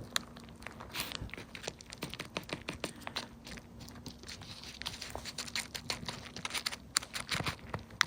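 Loose bird seed being scattered by hand, the grains landing in many small, irregular ticks and patters.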